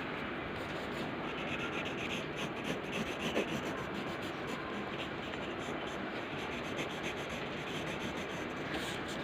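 Pencil rubbing and scratching steadily on paper while colouring in a drawing.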